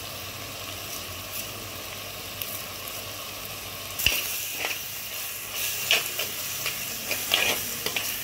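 Tomato-onion masala sizzling as it fries in a clay pot. About four seconds in there is a sharp knock, then a steel spoon stirs and scrapes through the masala several times.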